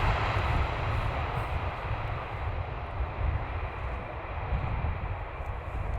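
Boeing 787-9 airliner's jet engines, a steady roar over a heavy, uneven low rumble that cuts in suddenly, during the landing.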